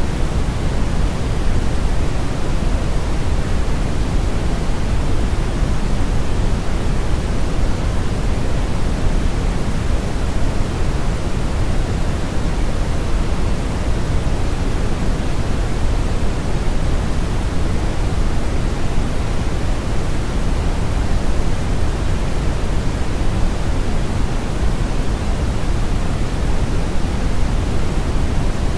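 Steady brown noise: a continuous, even rumbling hiss weighted heavily toward the low end, with the highs rolled off and no change in level.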